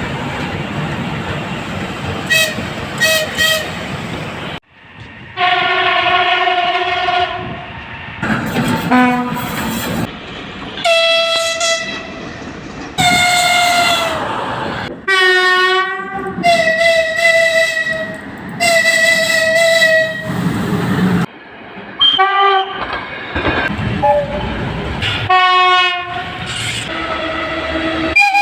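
Russian locomotive horns and typhons sounding in a string of separate recordings cut together. It opens with a train rolling along the rails and three short high toots, then several loud multi-tone horn blasts, some held for a second or two, one wavering and falling in pitch, with abrupt cuts between them.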